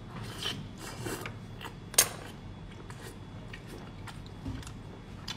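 Close-miked eating: wet chewing and lip smacks from a person biting into and chewing soft braised fatty food, with irregular small clicks and one sharp click about two seconds in.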